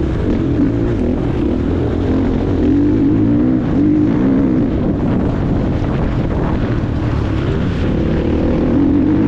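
Motocross bike engine running hard while being ridden, its pitch rising and falling continually as the throttle opens and closes.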